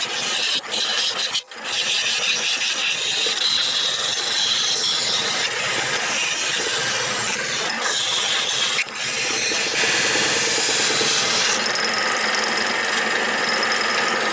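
Steel turning tool cutting into a spinning wooden block on a wood lathe, parting it off: a steady scraping hiss, broken briefly about a second and a half in and again near nine seconds.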